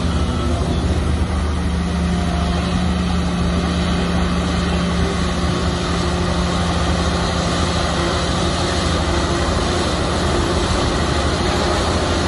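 Heavy bulldozer's diesel engine running steadily at a constant pitch, with a deep drone.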